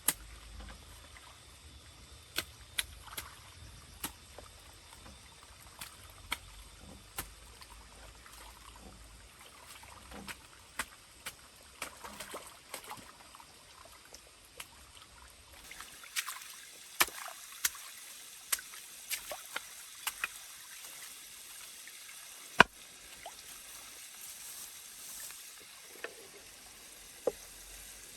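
Irregular sharp knocks and clicks, one or two a second, with one loud knock near the end, over a faint background hiss. A low rumble underneath stops about halfway through.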